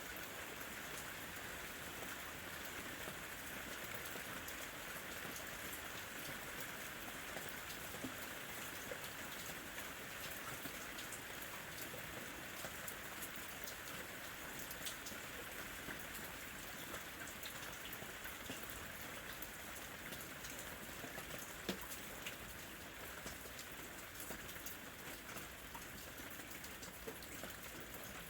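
Steady rain falling, a constant hiss with many small drops ticking and pattering through it.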